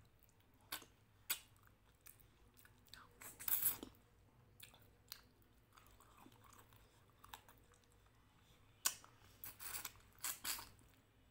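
Close-up mouth sounds of eating rice mixed with dal by hand: chewing with irregular wet smacks and clicks. The loudest burst comes about three and a half seconds in, and another run of smacks comes near the end.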